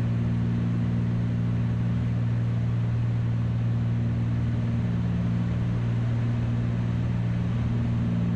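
Steady cabin drone of a light twin piston airplane's engines and propellers on the landing approach, with a deep hum under it. A couple of the higher tones in the drone shift slightly in pitch about halfway through.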